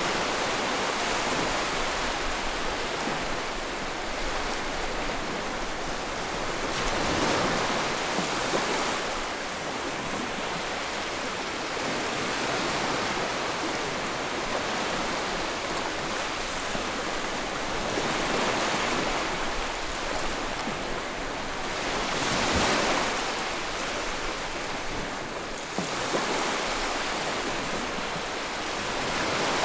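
Sea waves washing onto the shore: a continuous rushing surf that swells louder every few seconds as each wave breaks, then eases back.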